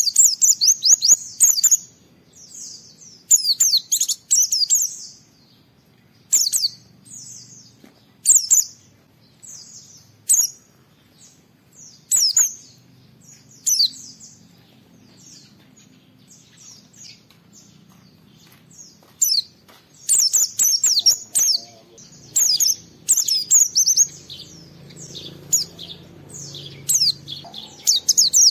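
White-eye (pleci) singing in rapid, high-pitched twittering phrases of a second or two, separated by short pauses. The phrases come thick and fast in the last third.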